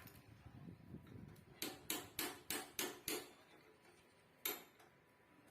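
Hammer blows on a metal motorcycle exhaust muffler as it is being hollowed out: six quick strikes about three a second, then a single strike a little over a second later, each with a short metallic ring.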